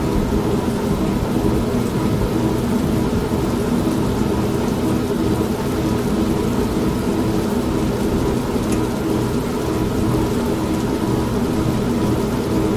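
An old washing machine running with a steady motor hum, mixed with continuous heavy rain and a low, rolling rumble of thunder.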